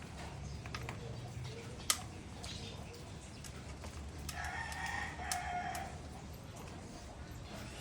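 A rooster crows once, for about a second and a half, midway through. Scattered light clicks come before it, with one sharp tap about two seconds in.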